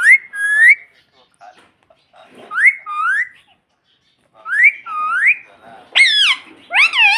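Indian ringneck parrot giving a series of about five whistled calls, each sliding up and down in pitch, some in two linked parts, with short silences between them.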